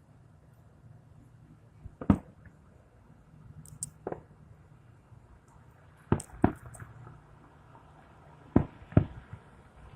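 Fireworks bursting overhead: six sharp bangs spread over the seconds, two of them in close pairs about a third of a second apart, with brief high crackles in between.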